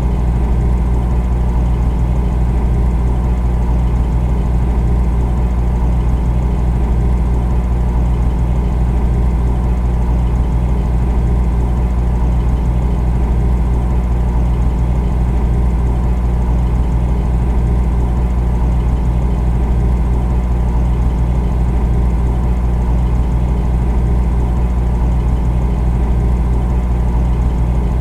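Refrigerator running with a steady, low, unchanging hum.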